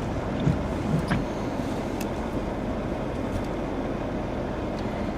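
Steady road and tyre noise inside a moving car, with a few light knocks in the first second or so.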